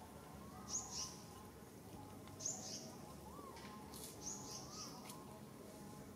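A bird's short, high chirps, three in all, about every second and a half to two seconds, each dropping at its end, with fainter, lower whistled notes between them.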